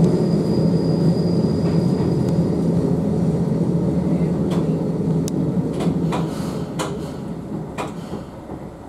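Diesel railcar heard from the driver's cab, rolling slowly into a station and braking to a stop. A steady low rumble fades over the last few seconds. A thin high squeal sounds for the first few seconds, and several sharp clicks come from about halfway through.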